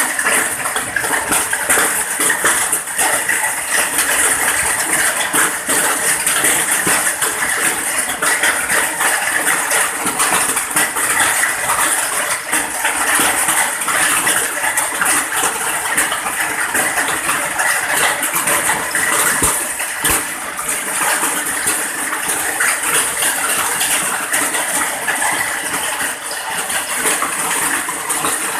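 Steady rain falling: a dense, even hiss made up of many small drop hits, with no let-up.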